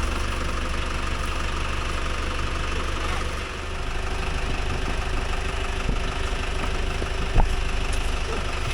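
Tractor engine running steadily, with a single sharp knock about seven seconds in.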